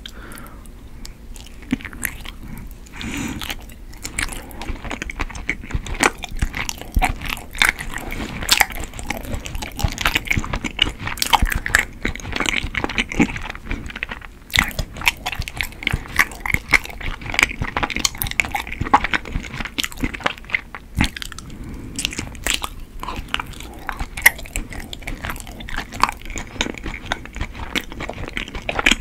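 Close-miked chewing of soft, chewy white Korean rice cake (tteok), a dense run of wet, sticky mouth clicks and smacks.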